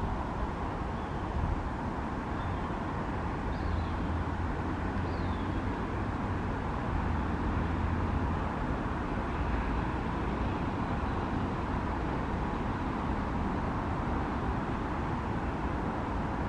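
Steady low rumble of vehicle traffic, with a few faint, short high chirps in the first few seconds.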